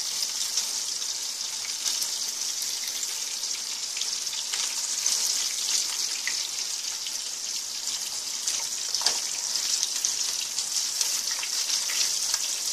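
Pork chops frying in hot oil in a stainless steel skillet: a steady sizzle with many small crackles.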